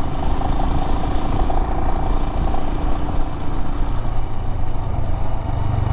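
Adventure motorcycle engine running steadily while riding a gravel road, with a low rumble under it. The engine note grows a little stronger about four seconds in.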